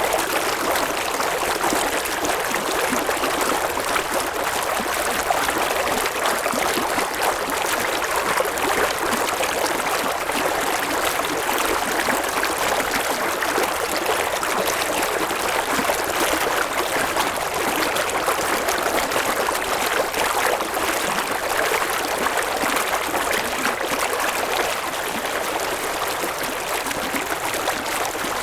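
River water flowing and babbling over stones, a steady dense rush with fine splashing detail.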